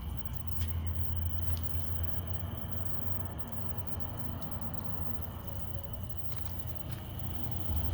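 Small garden water fountain running, its water splashing and dripping steadily, over a low steady hum.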